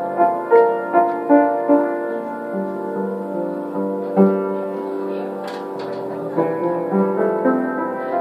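Piano being played slowly: single notes and chords struck and left to ring, with a quicker run of notes in the first two seconds. There is a brief tap a little past the middle.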